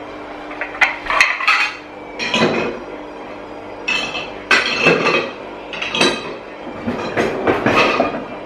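Dishes and cutlery clattering and clinking in a string of short, uneven bursts as crockery is moved and put away.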